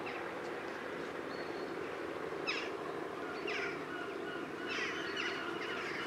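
Short bird calls that fall in pitch: one about two and a half seconds in, another a second later, then a quick run of them near the end, over a steady low hum.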